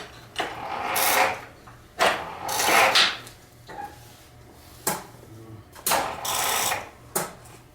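Rebuilt Ford Model T engine being turned over in three short bursts of about a second each, with sharp clicks between, and not catching. The battery seems too weak to crank it.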